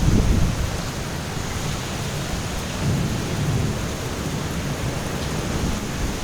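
Outdoor storm ambience before rain: a steady rushing noise with low rumbles that swell at the start and again about three seconds in.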